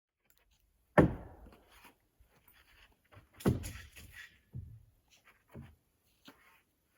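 A few irregular heavy thumps and knocks. The loudest come about a second in and about three and a half seconds in, with lighter knocks between.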